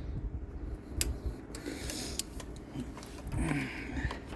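A few separate small clicks and taps as a hose clamp is worked down a rubber fuel line with hand or pliers.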